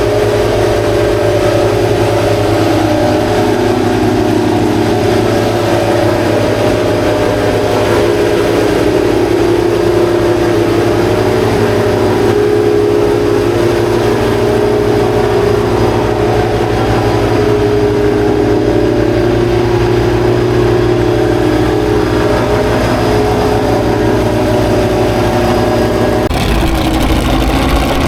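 Classic racing car engines idling, their pitch wandering slightly with light blips of throttle; the sound changes abruptly a couple of seconds before the end.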